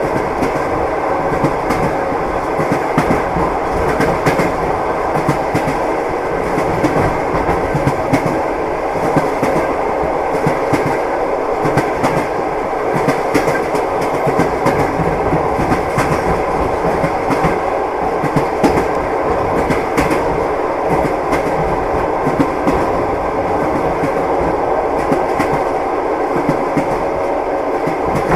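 Train wheels clattering over the rails as the train runs at a steady pace: a continuous rumble with scattered sharp clicks and a faint steady hum.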